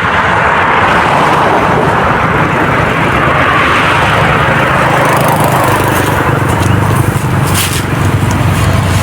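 Road traffic passing close by: a steady rush of tyre and engine noise, with a low engine hum that gets stronger near the end.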